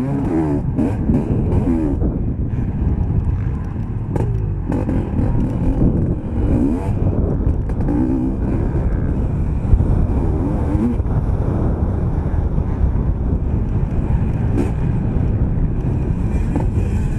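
Motocross bike engine racing on a dirt track, heard close up from on board. Its pitch rises and falls repeatedly as the throttle opens and closes.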